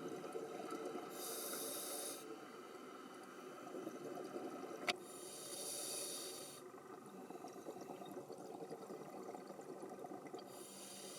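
Scuba diver breathing underwater through a demand regulator: three hissing inhalations, with bubbling exhalations between. A single sharp click about five seconds in.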